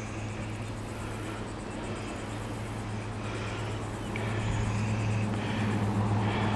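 A steady engine hum that grows louder from about four seconds in.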